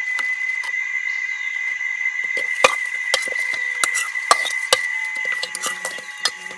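Steady high-pitched drone of night insects or frogs, with a run of sharp clicks and knocks starting about two and a half seconds in.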